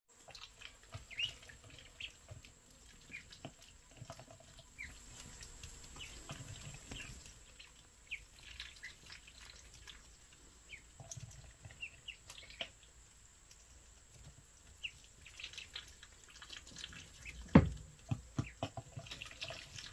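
Ducklings peeping in short, scattered high chirps, with small dripping water sounds. One sharp knock about three-quarters of the way through.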